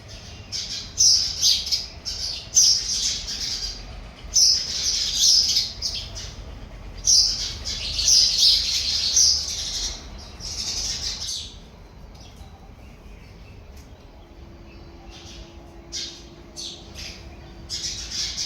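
Sparrows chirping in dense, harsh clusters for the first two-thirds, then only a few scattered chirps near the end.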